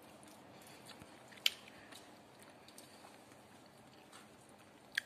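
Quiet chewing of crunchy dried anchovies (dilis), with a few short sharp clicks. The two loudest clicks come about a second and a half in and near the end.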